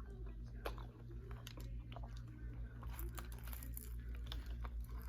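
Close-up chewing and biting of a Subway sandwich, with scattered short crunches and mouth clicks over a steady low hum.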